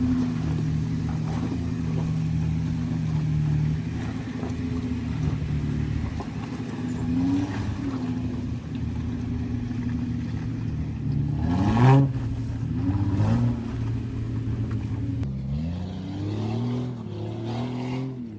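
Jeep engine running off-road at low revs, then revved up and easing off several times. The loudest rev is about twelve seconds in, and there is a run of rising revs near the end.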